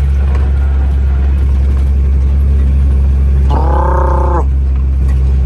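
Heavy truck's diesel engine pulling steadily under load up a rise, a constant low drone heard from inside the cab. About three and a half seconds in, a short pitched tone sounds for just under a second.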